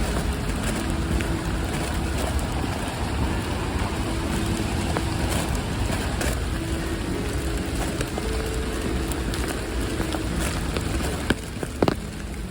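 Steady rain falling, with many small drops ticking close by and a low rumble underneath; two sharper taps near the end.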